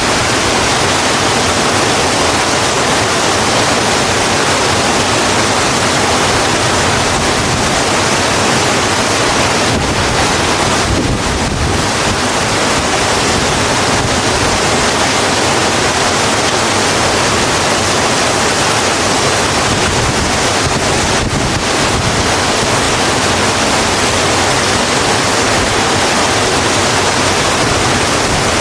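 Steady, heavy rain falling on a road: a dense, even hiss that does not let up.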